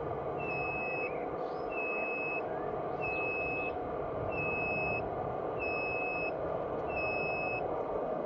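Truck reversing alarm beeping evenly, one high beep about every 1.2 seconds, over a steady engine rumble.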